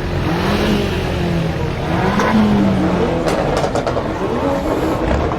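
Brabus-tuned Mercedes-AMG GLE43's twin-turbo V6 being revved, its pitch rising and falling twice. A few sharp exhaust cracks follow about three seconds in.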